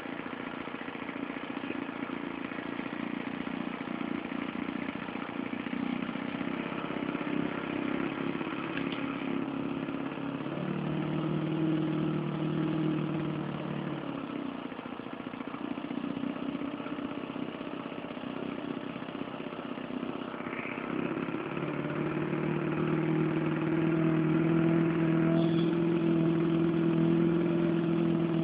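Small engine of a radio-control model Zero fighter running on the ground during engine tuning, its speed stepping up and down a few times and settling at a steady higher note for the last several seconds.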